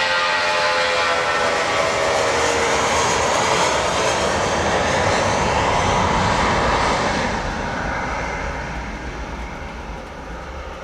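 Airbus A320 jet engines at takeoff power as the airliner goes past, their whine falling in pitch. The sound then fades steadily from about seven seconds in as the aircraft moves away.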